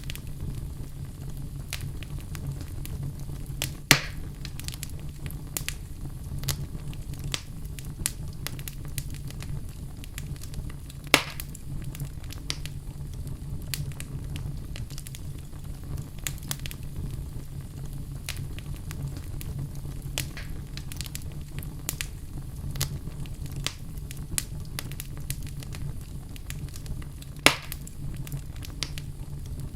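Fire burning in a fireplace, crackling with frequent small snaps and three loud pops, over a steady low rumble.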